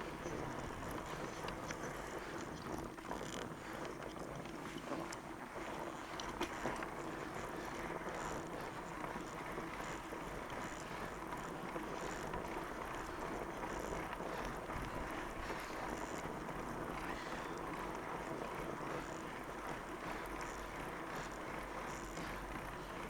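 Fat bike's wide tyres rolling over wet, packed snow, an even steady hiss with the odd faint crunch or click, and the rider's breathing under it.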